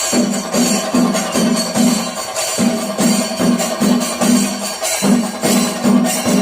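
Percussion music: drums beat an even rhythm of about two and a half strokes a second, over jingling cymbals and a held steady tone.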